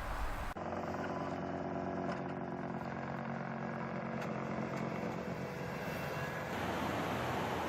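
A vehicle engine running steadily, after a short stretch of rumbling noise that cuts off about half a second in; near the end the engine hum gives way to a hissing rush.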